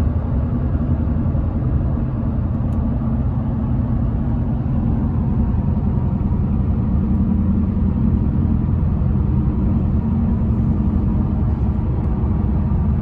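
A motor vehicle's engine running steadily, a loud low rumble with a steady hum.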